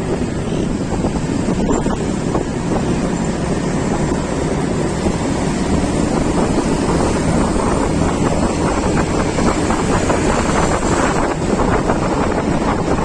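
Steady wind buffeting the microphone of a moving vehicle, a continuous rushing noise with the vehicle's running noise beneath it.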